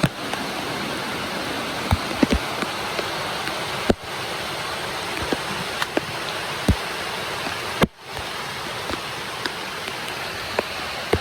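Steady rush of flowing water, with scattered small clicks and knocks over it. The rush dips briefly twice.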